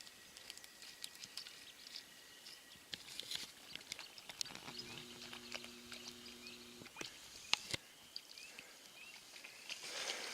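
Faint woodland ambience after rain: scattered light ticks and taps, one sharper click about seven seconds in, a faint low steady hum midway, and a few short high chirps near the end.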